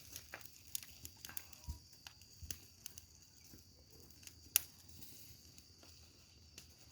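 Wood bonfire burning, with sparse crackles and small pops and one sharp pop about four and a half seconds in.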